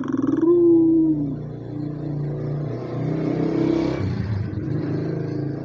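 White puter doves (Barbary doves) cooing: low, drawn-out coos that overlap one another, the loudest a slightly falling coo in the first second, followed by more steady coos.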